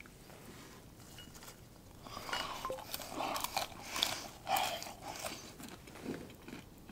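Crunching and chewing walnuts, in a cluster of irregular crackly bites starting about two seconds in and fading after a few seconds.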